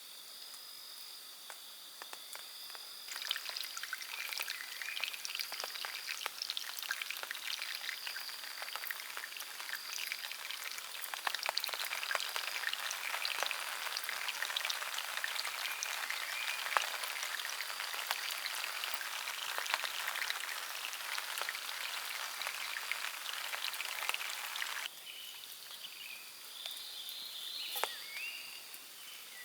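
Rain pattering and crackling densely on leaves and a tarp, starting and stopping abruptly. Before and after it, a steady high insect drone, and a few short bird calls near the end.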